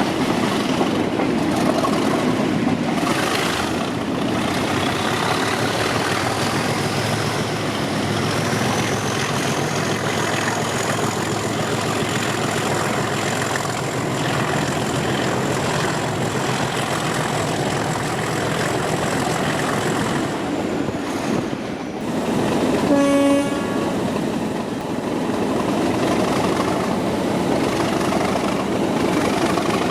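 The English Electric 12CSVT diesel engine of Class 37 37109 is working under power, heard from the train behind the locomotive. A turbocharger whistle rises from about four seconds in and holds high before fading. A little over two-thirds through, the horn gives one short blast.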